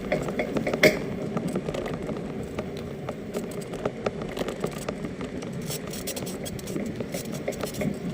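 Electric bicycle in use, giving a steady rumble with many irregular clicks and knocks. The owner fears it is about to break, and blames a wrong part supplied for self-assembly.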